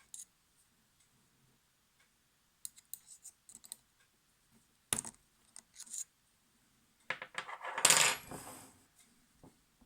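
Small metal clicks and clinks from tools and parts being handled on a vintage Necchi sewing machine. About eight seconds in there is a louder, ringing metallic clatter.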